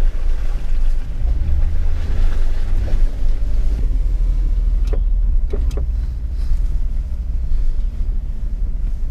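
Jeep Wrangler driving through water on an off-road trail: steady low engine and drivetrain rumble with water splashing and washing against the vehicle, the splashing easing after about four seconds. Two sharp knocks about halfway through.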